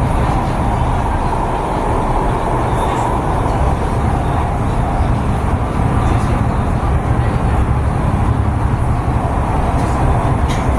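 MTR East Rail Line R-Train electric multiple unit running at speed, heard from inside the passenger car: a steady loud rumble and rushing noise of wheels on rail, with a few faint clicks near the end.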